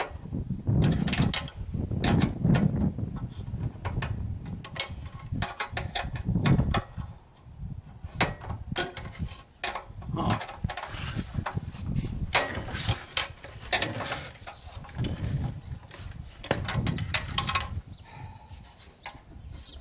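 Hand tools clicking and clanking against metal in irregular bursts as bolts are worked loose on a hot-water pressure washer, with knocks and handling rumbles from moving the parts.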